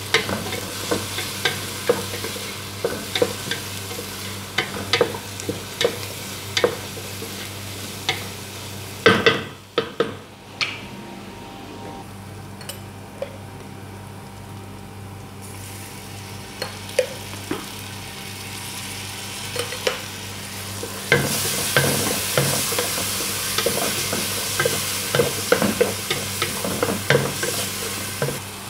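Chicken and carrot slices sizzling in a frying pan while a wooden spatula stirs and scrapes, with frequent sharp clacks against the pan. A burst of loud knocks comes about nine seconds in, the sizzle dies down for a few seconds after, then grows louder again about three-quarters of the way through, over a steady low hum.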